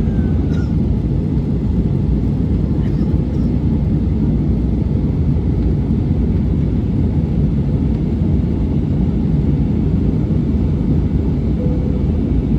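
Steady cabin roar of an airliner in flight: jet engine noise and airflow heard from inside the passenger cabin, even and unbroken.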